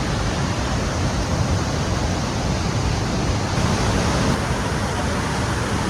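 Steady rushing roar of a wide, spread-out waterfall, water pouring continuously without a break.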